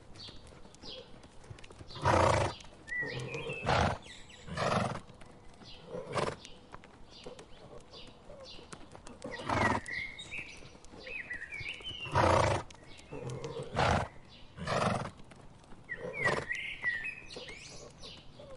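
Horses making short, loud calls, about ten spread through the stretch, with birds chirping in between.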